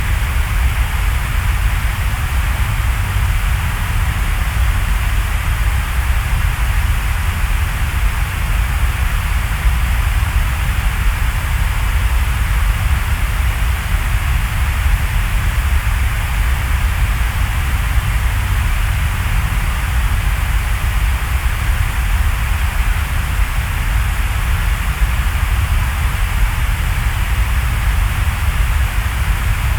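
Steady rain falling in a forest: an even, unbroken hiss with a low rumble underneath.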